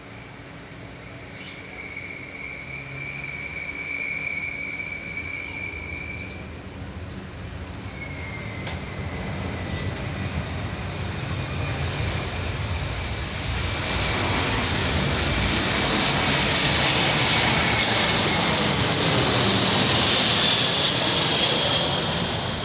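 Jet noise from a Boeing C-17 Globemaster III's four turbofan engines as it approaches to land, growing steadily louder as it nears. A high hiss and whine build up from about two-thirds of the way in, and ease slightly at the very end.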